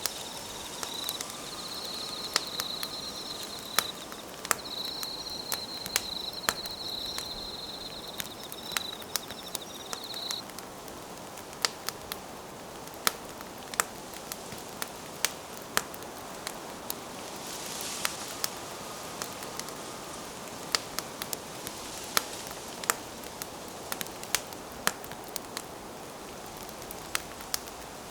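Wood fire crackling, with frequent sharp pops and snaps. An insect trills steadily at a high pitch underneath and stops about ten seconds in.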